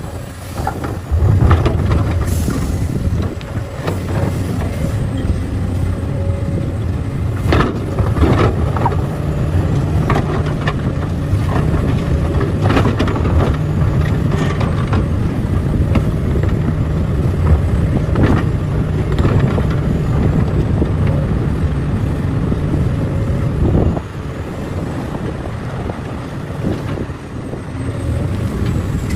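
Heavy diesel mining machinery running with a deep steady engine drone, with scattered metallic clanks and knocks; the engine note drops quieter about 24 seconds in.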